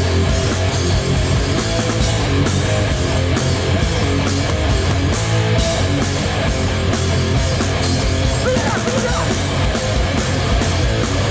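Hardcore punk band playing live at full volume, with distorted electric guitars, bass and a drum kit pounding out a steady fast beat.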